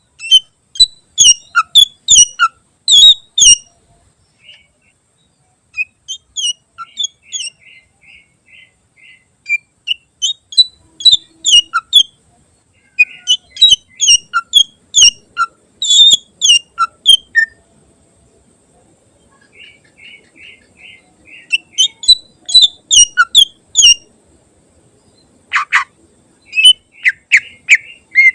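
Green leafbird (cucak ijo) singing in loud bursts of sharp, rapid notes, with pauses between them and runs of softer, evenly repeated chirps, in a song packed with borrowed phrases (isian).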